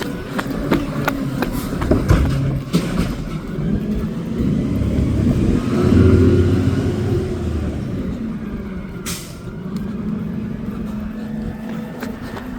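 Garbage truck engine revving up and easing back, with knocks in the first few seconds and a short hiss of air about nine seconds in.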